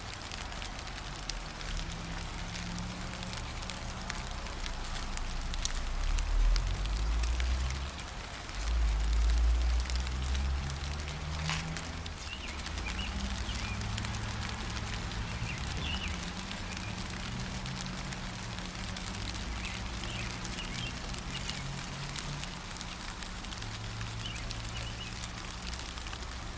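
Steady patter of light rain, with small bird chirps here and there, over a low rumble that swells loudest twice in the first half.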